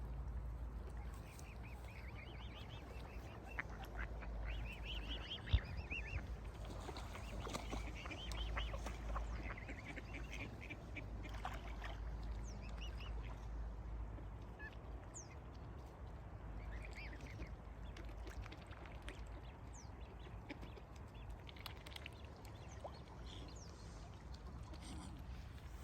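Waterfowl calling in bursts of rapid repeated calls, busiest in the first half, over a low steady rumble, with one sharp click about five and a half seconds in.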